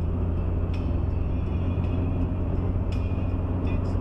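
Steady road and engine noise of a moving car as picked up inside the cabin, a constant low hum under a noisy rumble, with three short faint clicks.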